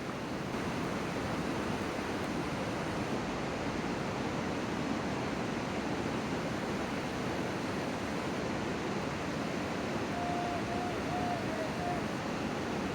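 Steady rushing outdoor noise, with a short run of faint chirps about ten seconds in.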